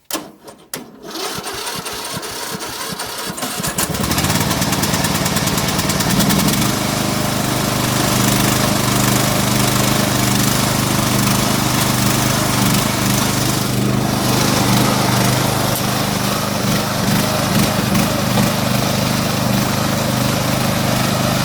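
Riding lawnmower engine being started: a few seconds of rapid, uneven cranking, catching about four seconds in, then running steadily.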